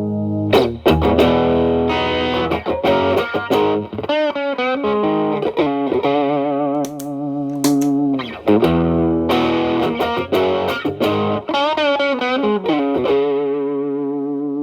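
Telecaster played through an Xotic BB overdrive into a Marshall Valvestate clean channel, with the drive cleaned up to a light crunch. It plays ringing chords with sharp pick attacks and a few bent single notes with wide vibrato, about four and twelve seconds in.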